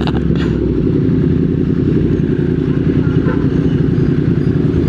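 Motorcycle engine running steadily under way, a constant low rumble.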